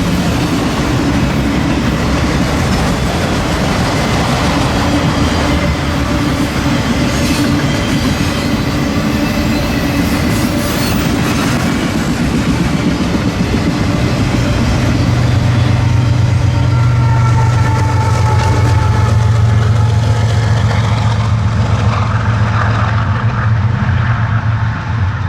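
Long freight train of auto rack cars rolling past, with steel wheels clattering over the rail joints. About halfway through, a deep steady diesel engine drone swells in, typical of a distributed-power locomotive coming by at the rear of the train.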